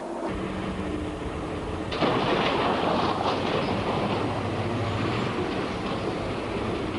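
Large mining dump truck running, a heavy rumbling machinery noise that turns suddenly louder and harsher about two seconds in.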